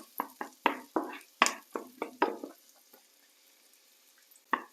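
A utensil stirring garlic and onions in a frying pan: a quick run of short scraping strokes, about three or four a second, that stops a little past halfway, with one more stroke near the end.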